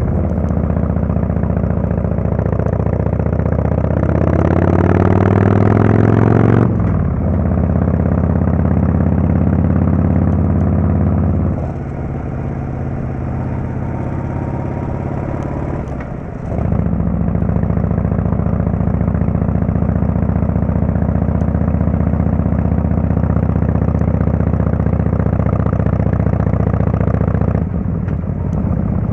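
Harley-Davidson Fatboy S Screamin' Eagle Twin Cam 110 V-twin through a Kesstech exhaust, heard from the rider's seat. The engine note first falls as the bike slows, then rises under throttle until it cuts off abruptly about seven seconds in at a gear change. After that it runs at a steady pitch, with a quieter off-throttle stretch in the middle and another throttle drop near the end.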